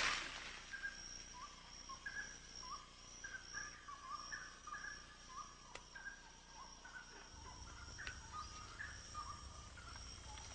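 Amazon rainforest ambience: a steady, slightly pulsing high insect drone with many short chirping calls scattered through it. A short rush of noise at the very start, and a faint low rumble joins about seven seconds in.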